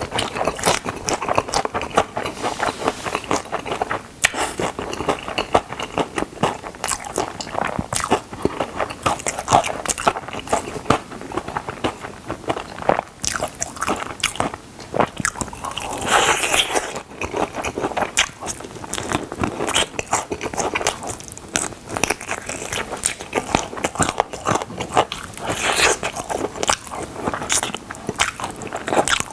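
Close-miked biting and chewing of crispy fried chicken drumsticks: dense, irregular crunching and crackling of the fried coating, with wet chewing between bites.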